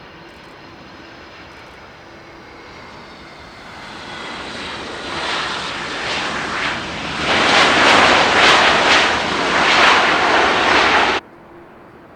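Jet airliner passing close, its engine noise swelling from a faint whine with slowly falling tones to a loud roar, which cuts off abruptly about eleven seconds in.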